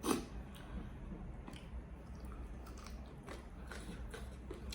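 A person chewing and biting fried chicken close to the microphone, with scattered small crunchy clicks and one louder bite right at the start.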